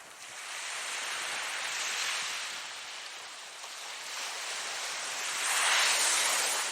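Ocean surf: waves breaking and washing ashore as a rushing hiss, swelling twice and loudest near the end.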